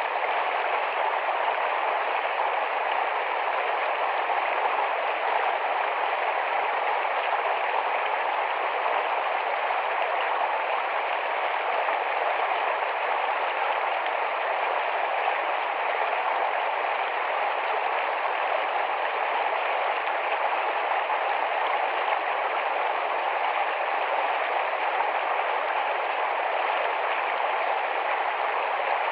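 Shallow, fast-flowing forest stream: water rushing and babbling steadily.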